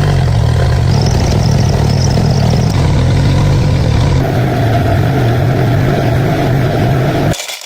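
Diesel engine running steadily and loudly, then cutting off abruptly near the end.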